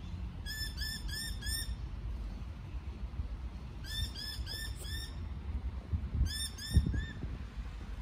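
A bird calling in three bursts of short, clear, arching notes, four, then four, then three, about three notes a second, over a steady low rumble of wind and traffic.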